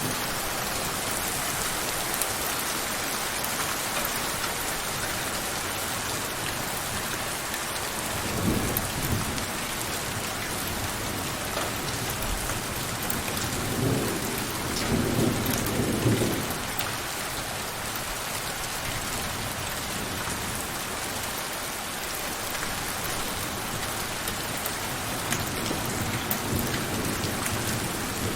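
Steady heavy rain falling on surfaces, with scattered drops tapping, and low rumbles of distant thunder rolling in twice, about eight seconds in and again around fourteen to sixteen seconds in.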